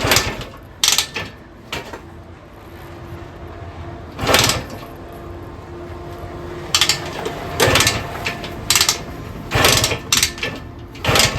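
Kick-starter of a 1974 Indian SE74's Minarelli P4-70 two-stroke engine being kicked over again and again, a dozen or so short mechanical clunks at uneven spacing; the engine turns over without catching.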